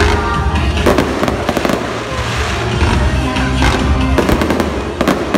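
Fireworks display: repeated bangs and crackles, with a quick cluster of pops about four seconds in, over loud music.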